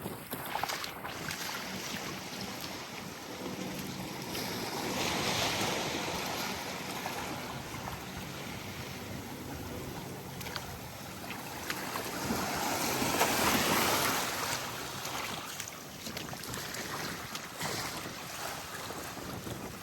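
Small waves washing onto a sandy beach, swelling about five seconds in and again, louder, around thirteen seconds, with wind on the microphone.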